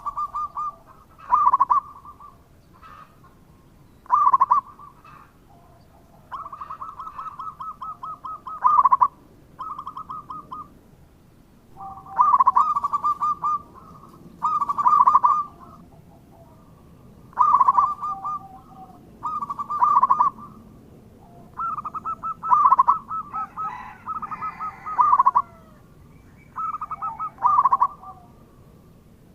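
Zebra doves (perkutut) cooing: repeated rapid, trilled coo phrases, some short and some drawn out for a few seconds, with pauses between. Other bird calls overlap with gliding notes about two-thirds of the way through.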